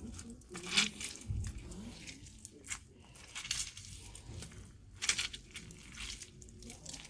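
Scattered light clinks and taps of kitchen items being handled while seasoning food, with a few sharper ones about 1, 2.7, 3.5 and 5 seconds in.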